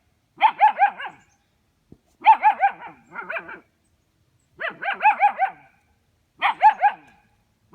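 Ten-week-old German Shepherd puppy barking in four quick volleys of several sharp barks each, about two seconds apart: fearful barking at a ball it is afraid of.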